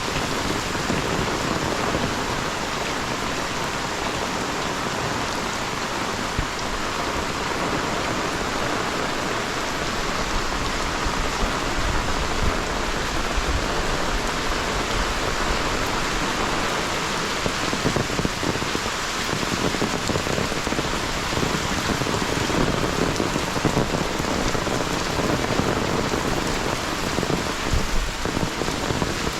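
Heavy rain falling steadily, a dense continuous hiss of drops pattering on surfaces.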